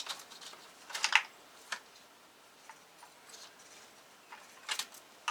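Scattered sharp clicks and clacks of hard parts knocking together as the fuel rail and injectors are worked free of the engine. The loudest cluster comes about a second in, and there is another near the end.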